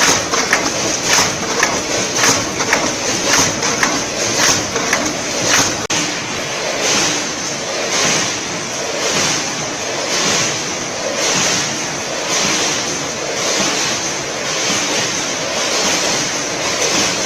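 Combination (multihead) weigher filling machine running through its portioning cycle, with a rush of rattling snack pieces about once a second. Sharp clicks come through in the first six seconds.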